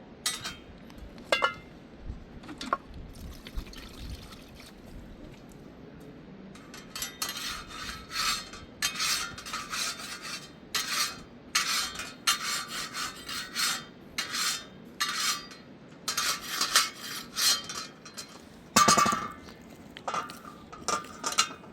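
Repeated rubbing strokes, about one a second, starting some seven seconds in, with one louder knock near the end.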